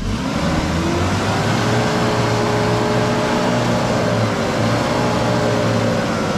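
4WD engine revving hard under load in low-range second gear on a steep muddy climb. The pitch rises over the first second or so, holds high and steady, then drops away near the end.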